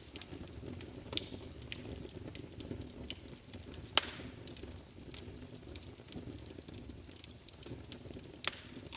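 Wood fire crackling in a fireplace: irregular sharp pops and snaps, a couple of them louder, over a soft steady low rumble of the flames.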